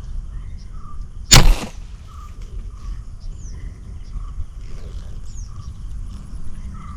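A spear gun fired once about a second in: a single sudden loud release lasting under half a second. Small birds chirp repeatedly in the background.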